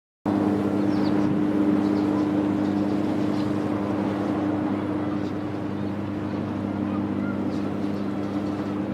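A steady low mechanical hum with two held tones, over a constant wash of outdoor noise.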